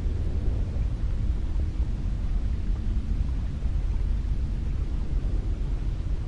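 Cold wind blowing steadily, a deep rushing rumble that swells and eases slightly without pause.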